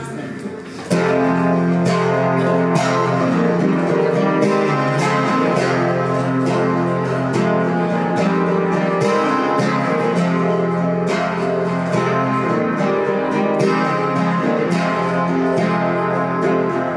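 Acoustic guitar played without singing. A soft chord dies away, then steady, loud strummed chords come in about a second in and keep an even rhythm.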